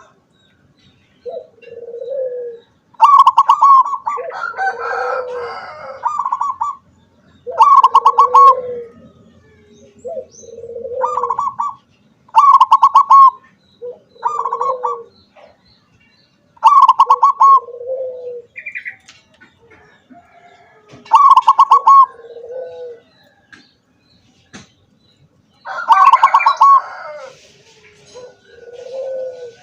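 Zebra dove (perkutut) singing: repeated cooing phrases about every four seconds, each a fast stuttering run of higher notes followed by a lower, rounder coo.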